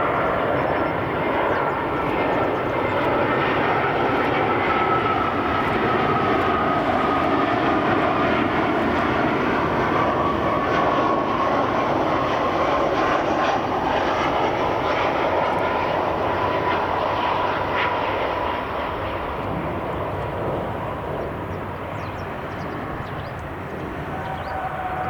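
Airbus A320's twin jet engines on a landing approach: steady engine noise with a high whine that slowly falls in pitch, the sound easing off after about eighteen seconds.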